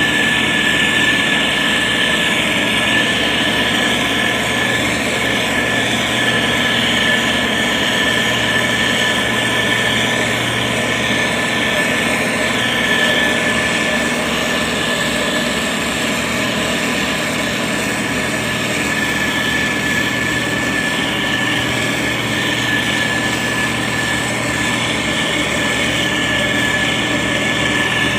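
SANY STG190C-8S motor grader's diesel engine running steadily, with a constant high whine over the engine noise.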